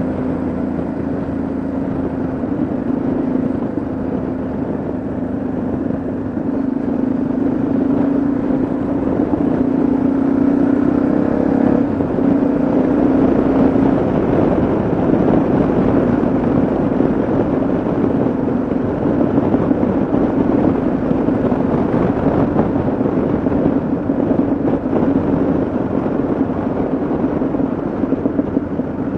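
Yamaha XT660Z Ténéré's single-cylinder engine running steadily on the move, with wind rush over the bike growing louder about halfway through.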